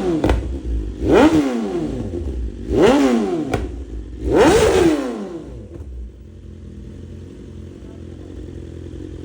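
BMW S1000RR inline-four engine through a full titanium exhaust with an SC-Project CRT silencer. It is blipped three times, each rev shooting up and dropping straight back, with a sharp pop or two as the revs fall. It then settles to a steady idle for the last few seconds.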